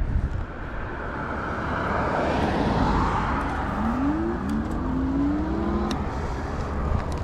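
Wind buffeting the microphone on a moving e-bike, a steady rumble that swells briefly, with a low hum rising in pitch about two-thirds of the way through.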